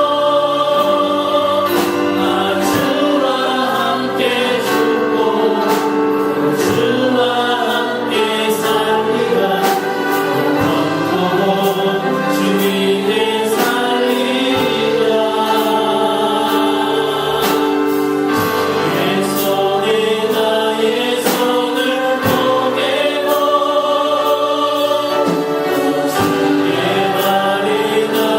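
A group of voices singing a Korean worship song in unison over instrumental accompaniment with a steady drum beat.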